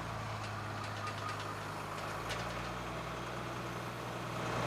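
Engine of a hay-harvesting machine running steadily, heard from inside its cab as a low, even hum that grows a little louder near the end.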